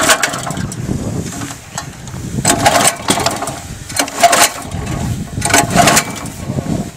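A walk-behind tractor's small petrol engine being started. The engine surges three times, a second or two apart, with a lower running rumble between the surges.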